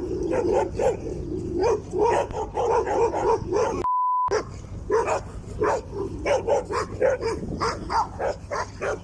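A dog barking rapidly and repeatedly, about two or three barks a second. About four seconds in, a short steady beep briefly replaces the sound.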